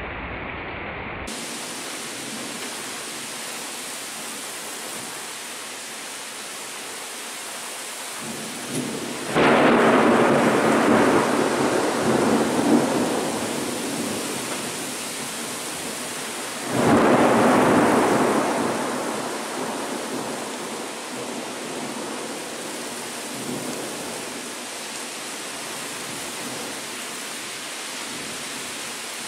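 Steady heavy rain hiss, with two thunderclaps about seven seconds apart. Each one breaks in suddenly and rumbles away over several seconds.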